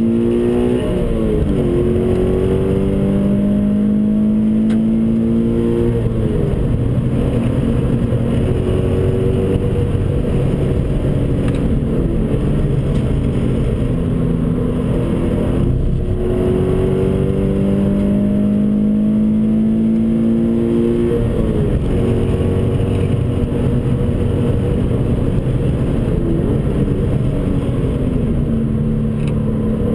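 Toyota 86's 2.0-litre flat-four boxer engine heard from inside the cabin under hard track driving. Its note climbs steadily and falls back sharply at each gear change, about five times, over steady road and wind rumble.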